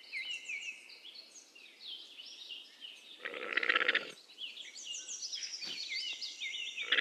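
Birds chirping throughout, with two short, pulsed donkey calls, one about three seconds in and another near the end.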